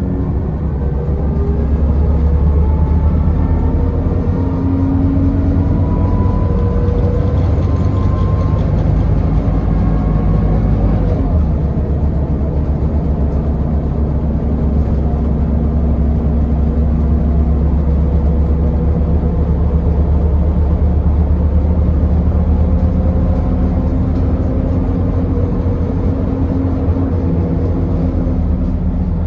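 Scania L94UB bus's diesel engine pulling the bus along, its note climbing over the first few seconds. It changes about eleven seconds in, then runs steadily and climbs again near the end.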